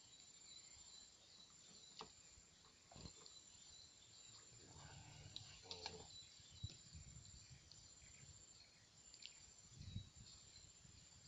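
Faint steady high-pitched insect chorus with light chirping, broken by a few soft clicks and low knocks.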